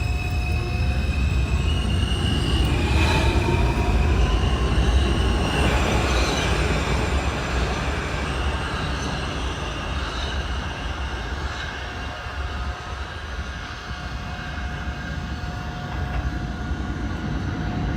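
New York City subway train running over a steady low rumble, with a whine that rises in pitch over the first few seconds and high wheel squeals coming and going, loudest a few seconds in.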